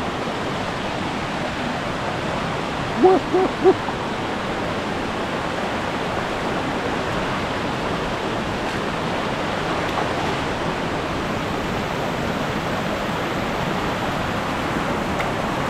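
River water rushing steadily over rocks. About three seconds in, three short pitched calls rise above it.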